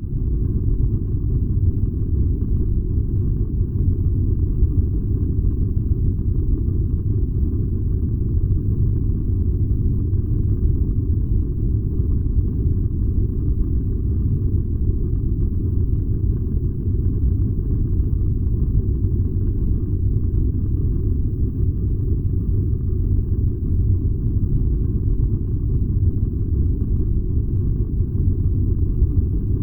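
Furnace running with a steady, unchanging low rumble.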